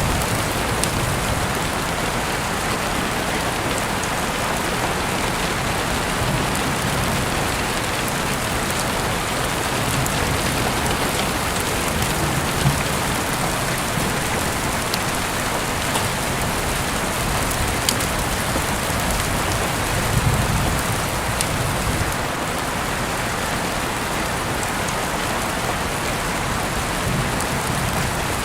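Heavy rain falling steadily, heard through an open window, with the odd louder drop striking close by.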